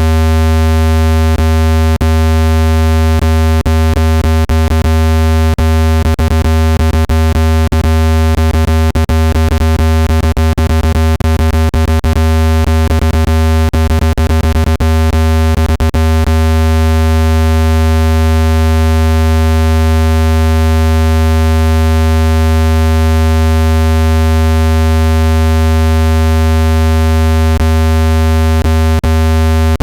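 Loud, steady, low-pitched synthesized tone with a buzzy stack of overtones, played through a speaker to vibrate dust out of it. Many sharp clicks run through it, thickest between about 6 and 16 seconds in.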